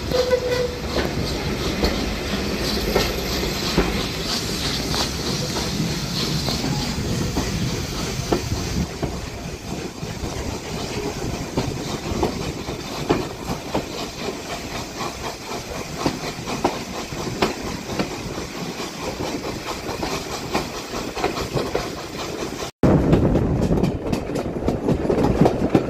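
Steam-hauled passenger carriage running along the track, heard close from an open carriage window: a continuous rumble with wheels clicking over rail joints. There is a sudden brief dropout near the end, and the sound is louder after it.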